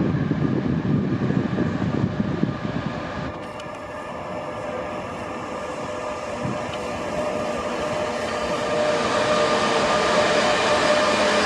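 Train at a station platform: a low, heavy rumble dies away about three seconds in, then the sound builds again with a steady whine as a train draws closer.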